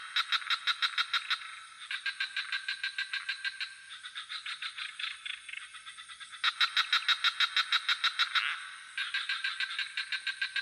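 A chorus of frogs calling in fast, rattling pulse trains of about eight pulses a second, several calls overlapping in bouts of about two seconds, over a steady high insect hum.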